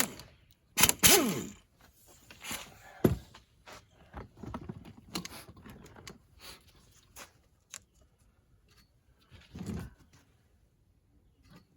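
Hand-handling noises from work on a car seat-belt buckle and its wiring: a sharp click at the start, a scrape with a falling squeak about a second in, a knock around three seconds, then scattered small clicks and a short rustle near the end.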